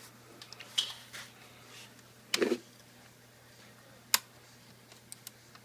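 Plastic retaining clips on a Samsung Series 7 ultrabook's screen assembly snapping loose as a prying tool is pushed through them: scattered clicks and snaps. The fullest comes about two and a half seconds in, and the sharpest about four seconds in.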